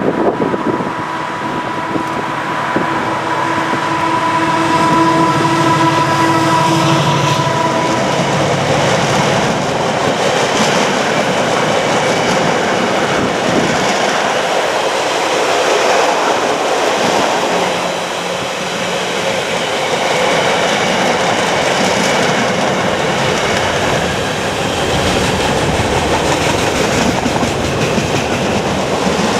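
Diesel-hauled freight train passing close by. The locomotive's engine gives a steady hum for the first several seconds, then a long rake of wagons rolls past with a rhythmic clatter of wheels over the rail joints.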